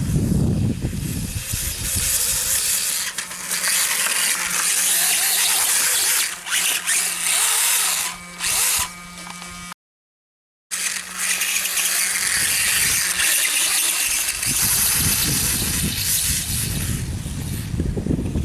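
Small electric motor of a radio-controlled dirt bike whirring, with a steady low hum under it. The sound cuts out completely for about a second midway, then resumes.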